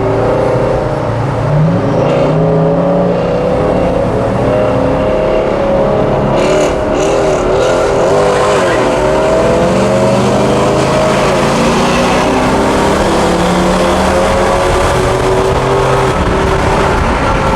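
V8 pickup truck engine pulling under load, its pitch climbing slowly, wavering about halfway, then climbing again.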